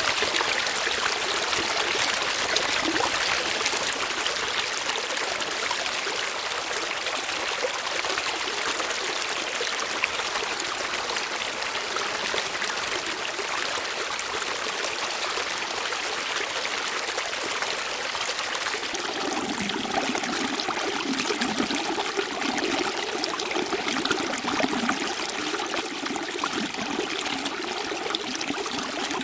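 Flowing stream water, a steady rushing trickle; about two-thirds of the way through, a lower bubbling gurgle joins in.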